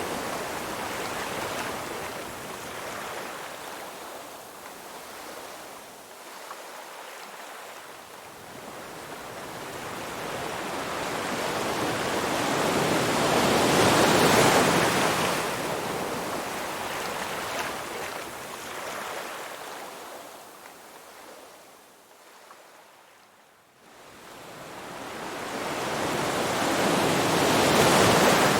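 Ocean surf, rising and falling in slow waves: one wave swells to a peak about halfway through and washes away, the sound ebbs almost to nothing, then the next wave builds to a peak near the end.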